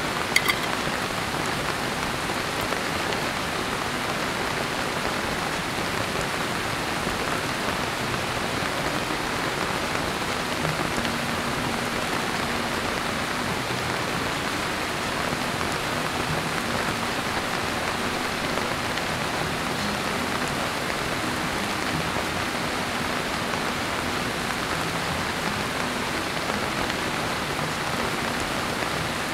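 Heavy rain falling steadily on a camp tarp, an even downpour hiss. About half a second in come a couple of light metal clinks from a pot and spoon against a mess tin.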